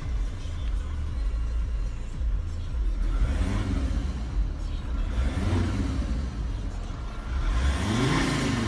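Car engine running with a steady low rumble, revved up and let fall back three times: a third of the way in, past the middle, and most strongly near the end.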